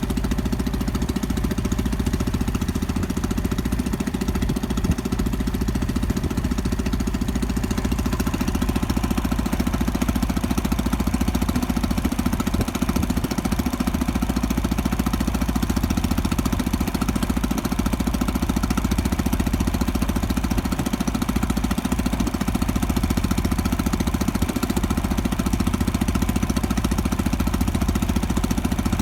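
Small fishing boat's engine running steadily, a fast even chugging.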